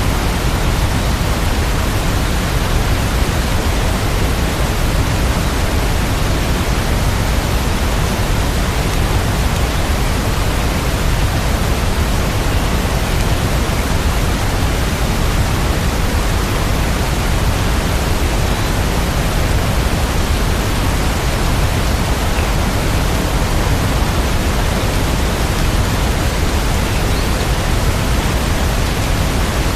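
Steady rain ambience: an even, unbroken rush of noise, with no separate drops, thunder or changes.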